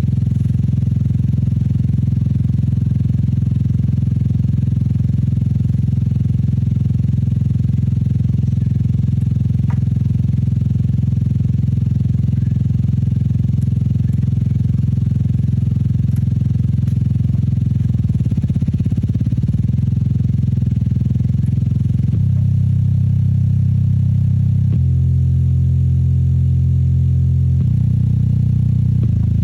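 Loud, steady, low-pitched buzzing tone of the kind used to drive a cymatics speaker. It wavers briefly past the middle, then jumps to new pitches several times near the end.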